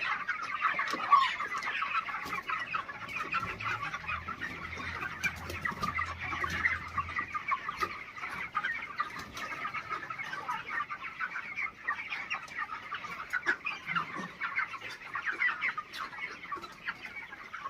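A flock of chickens chirping and clucking continuously, many birds calling at once in a dense, steady chatter.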